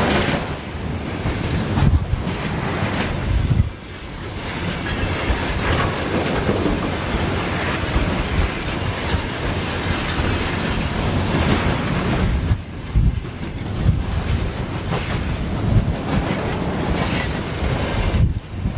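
A train passes close by, its wheels clattering on the rails, with wind gusting on the microphone in a blizzard.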